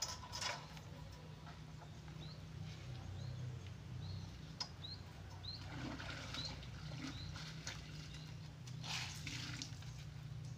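A bird calling over and over with short high chirps, about two a second. Wet laundry is pulled from a bucket and shaken out, making swishes at the start, about six seconds in and again near nine seconds.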